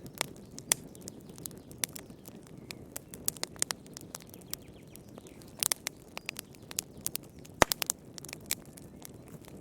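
Wood fire in a fireplace crackling, with irregular sharp pops over a low, steady rush of flame; a cluster of pops comes a little past the middle and the loudest single pop follows about two seconds later.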